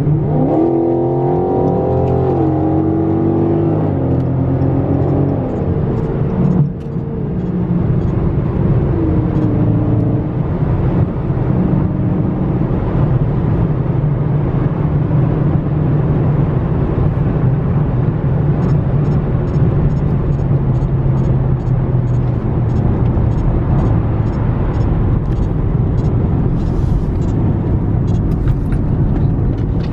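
Dodge Charger Scat Pack's 392 HEMI V8 (6.4 L) under way on the road: its pitch climbs and drops over the first few seconds as it accelerates, then it settles into a steady cruise drone.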